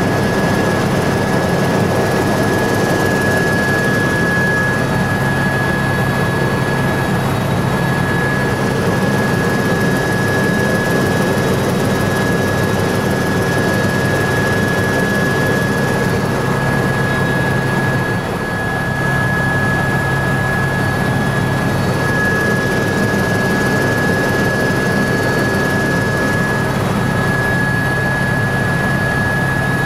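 Helicopter in flight: steady rotor and engine noise with a constant high turbine whine, easing slightly for a moment about two thirds of the way through.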